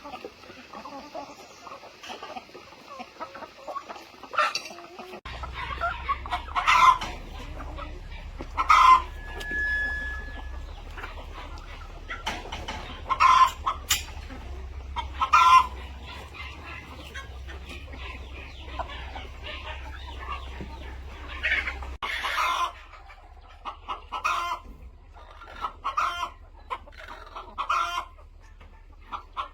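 Chickens clucking and squawking in short, irregular calls, some of them loud. A low steady rumble sits underneath from about five seconds in until about twenty-two seconds.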